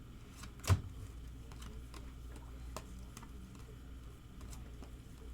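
Trading cards being handled between pulls: scattered soft ticks and taps, with one sharper click about a second in, over a low steady hum.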